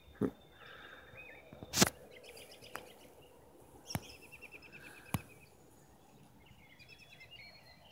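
Birds chirping in short trilled phrases, with a few sharp clicks, the loudest about two seconds in.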